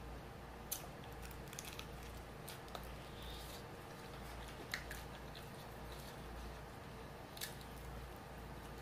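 Quiet chewing of a sauced fried chicken wing, broken by three sharp clicks spread through the few seconds.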